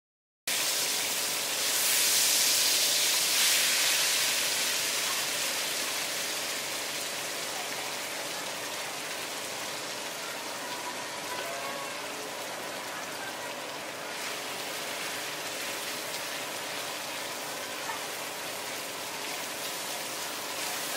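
Shredded potato sizzling in hot oil on a flat griddle tray: a steady hiss that starts suddenly about half a second in, is loudest a couple of seconds later, then settles to an even level.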